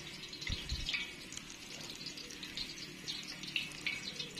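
Chapli kababs frying in hot ghee in an iron karahi: a steady sizzle with small crackles and pops.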